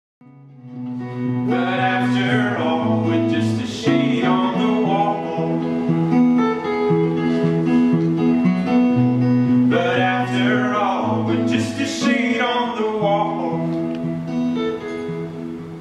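Live acoustic band music: an acoustic guitar strummed and picked in sustained chords, with a voice singing over it in places. The music comes in after a brief gap at the very start.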